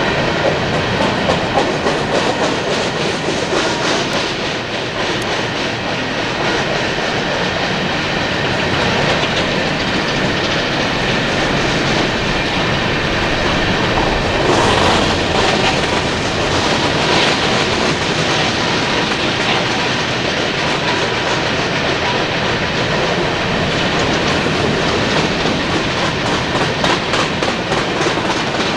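Cars of a Union Pacific coal train rolling past, a steady, loud clatter of steel wheels over the rails that runs on without a break.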